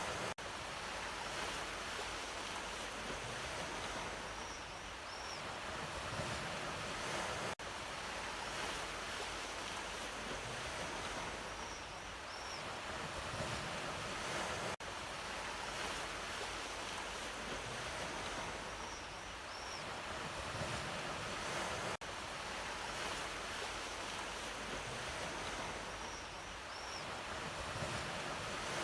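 Ocean surf, waves washing in steady swells. It is a short recording looped about every seven seconds, each join marked by a brief dip, with a faint short high chirp recurring once per loop.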